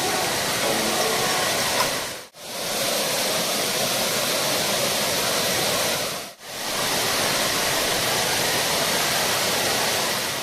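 Waterfall rushing: a steady, loud wash of falling water that drops away for a moment twice, about two and six seconds in.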